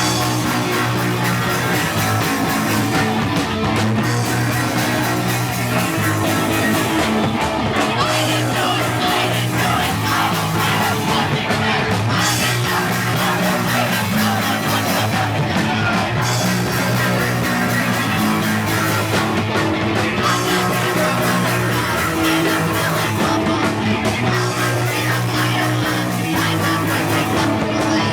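Live punk rock band playing loud and fast: distorted electric guitar, bass and drums driving a repeating riff, with some shouted vocals.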